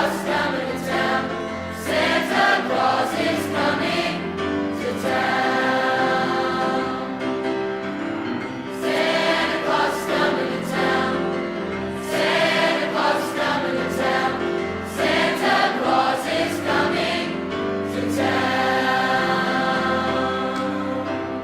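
High school choir singing in phrases of sustained notes, a Christmas concert piece.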